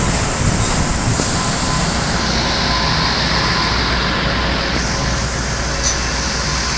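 Philippine National Railways diesel multiple-unit train running past at close range: a steady rumble of its diesel engine under the noise of wheels on the rails, with a single click near the end.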